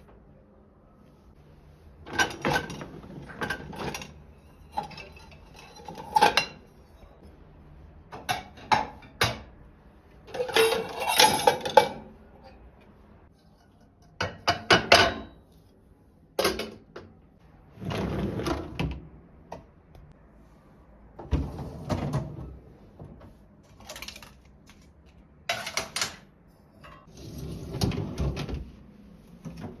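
Kitchen handling sounds: about a dozen irregular bursts of clatter, knocks and rubbing as dishes and kitchen items are moved and handled, separated by short quiet gaps.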